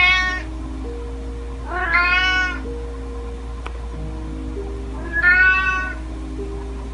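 Kitten meowing three times: a meow at the start, another about two seconds in and a third about five seconds in, each under a second long. Soft background music of sustained notes plays under them.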